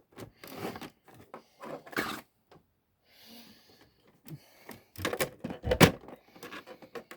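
Irregular clicks, knocks and rustles of hard plastic and metal console parts being handled and shifted, with the loudest knocks about five to six seconds in.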